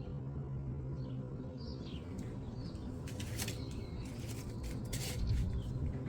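Small birds giving short, high chirps over a steady low background hum, followed from about halfway by a run of crackling clicks.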